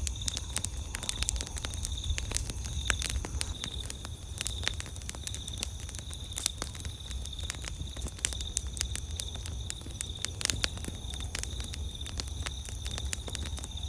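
Campfire crackling and popping: irregular sharp snaps from the burning wood, a few louder pops among them, over a steady high-pitched pulsing trill.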